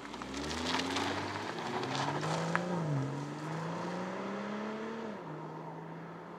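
BMW M240i's turbocharged straight-six accelerating hard. The engine note rises, dips briefly at an upshift about three seconds in, rises again, then drops to a steady cruise note about five seconds in.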